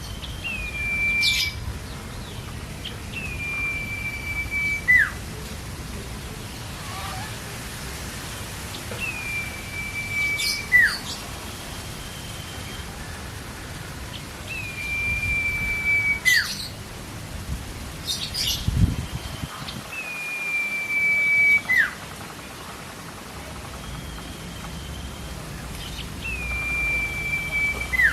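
Common iora (cipoh) singing: a long, level whistle that ends in a quick downward flick, repeated about every six seconds. Short, sharp chirps fall between the whistles, over a steady hiss.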